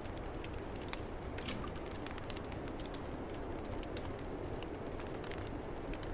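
Wood fire crackling in a fireplace, with irregular sharp pops and snaps, over the steady low rush of a snowstorm's wind.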